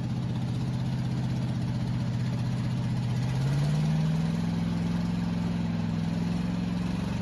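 Vehicle engine running steadily; about three and a half seconds in its speed rises and holds at the higher pitch.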